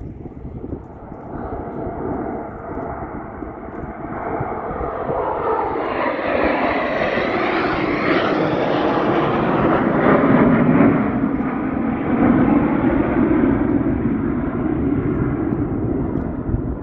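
Fixed-wing aircraft passing by: a rushing engine noise that builds over several seconds, is loudest around the middle, and slowly fades, with a shifting, phasing quality as it goes over.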